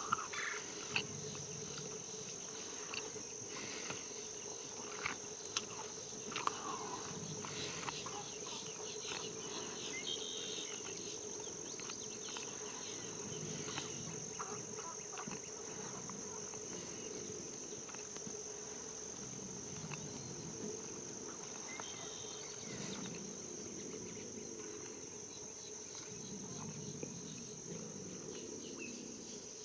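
Insects droning steadily on a continuous high pitch, over a lower steady hum, with scattered short bird chirps and clicks.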